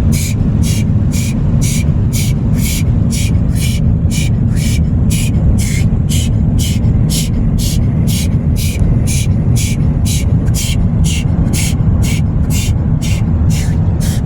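Automatic car wash machinery heard from inside the car: a steady low rumble with a sharp hissing pulse about three times a second.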